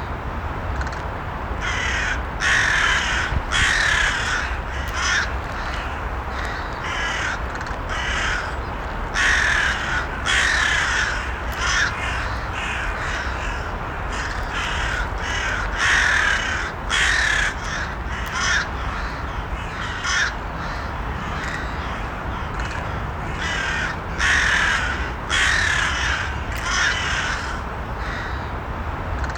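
Several crows cawing repeatedly, with short harsh calls at irregular intervals every second or two, over a steady low background noise.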